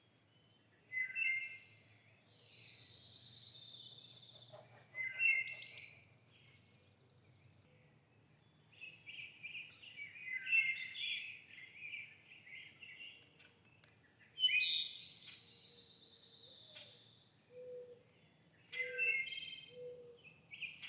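Small birds chirping and calling in short bursts, with two longer, level high notes among them.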